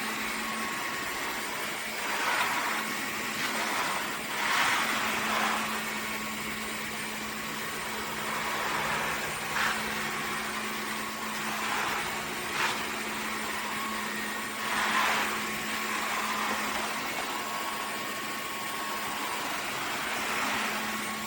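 Dreame H12 Pro cordless wet-dry vacuum mop running in its ultra suction mode: a steady motor hum with a rush of air, swelling briefly louder every few seconds.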